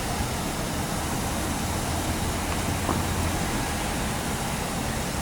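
Steady outdoor noise with the low hum of idling vehicle engines, swelling a little in the middle, and one faint tick.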